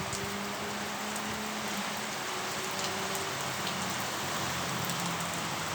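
Steady rain falling, an even hiss with scattered sharp ticks of individual drops striking nearby surfaces.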